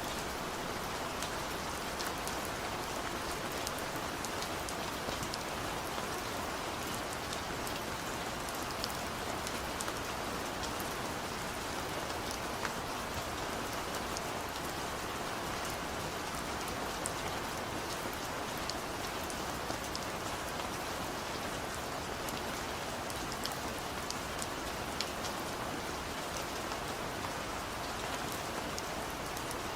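Steady rain falling on a surface, an even patter with scattered sharp drop ticks and no thunder.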